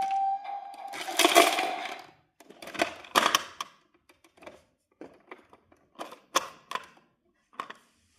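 Toy garbage truck: a steady high tone cuts off about a second in, followed by two bursts of rattling clatter and then scattered light clicks.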